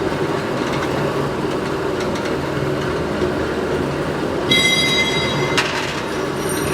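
Factory machinery running with a steady, dense mechanical noise and hum. About two-thirds of the way through, a high-pitched metallic squeal sounds for about a second and stops with a sharp click.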